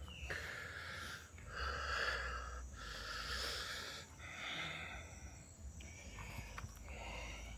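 A person breathing hard and heavily from the effort of a steep uphill hike, with about five long, rasping breaths in and out, each lasting about a second.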